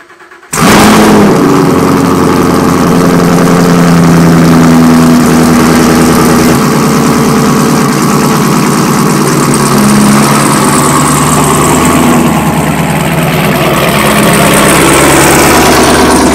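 Chevrolet Camaro engine starting with a sudden loud burst about half a second in, then running loudly and steadily at idle.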